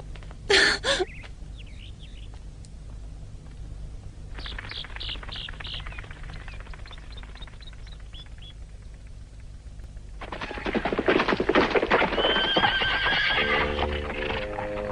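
Animal calls: a short pulsed call about four seconds in, then a longer, louder call from about ten seconds in. Music comes in near the end.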